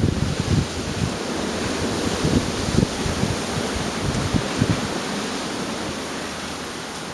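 Gale-force wind blowing in gusts: a steady rushing hiss with low rumbling buffets of wind on the microphone, strongest in the first second and easing a little toward the end.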